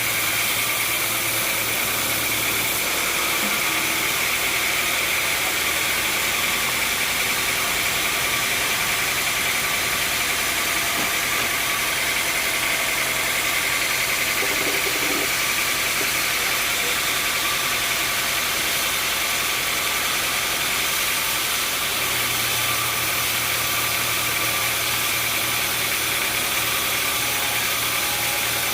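Sawmill machinery running steadily: an engine-like hum under a continuous hiss. The low hum drops back about three seconds in and comes up again about three-quarters of the way through.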